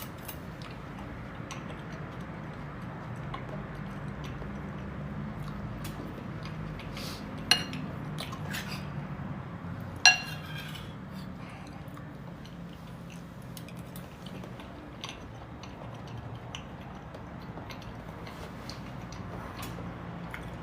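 Cutlery clinking and scraping on a plate during a meal, with two sharp ringing clinks about seven and ten seconds in, over a steady low hum.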